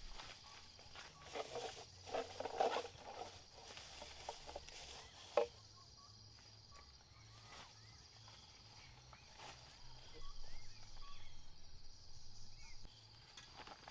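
Rustling and knocking of gear being handled, with one sharp knock about five seconds in. Behind it, a steady high insect drone and a few faint bird chirps.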